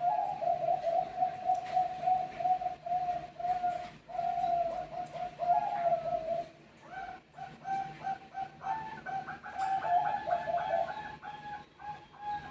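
Zebra doves (Bangkok perkutut) cooing in a rapid run of short, rippling notes. About six and a half seconds in it turns into a choppier run with a second, higher line of notes, as birds call back and forth.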